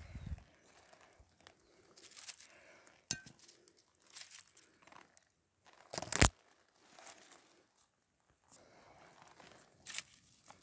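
Intermittent rustling and crunching, with one loud sharp knock about six seconds in.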